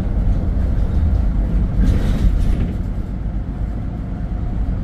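Steady low rumble of a moving vehicle's engine and road noise while driving, with a brief swell of rushing noise about two seconds in.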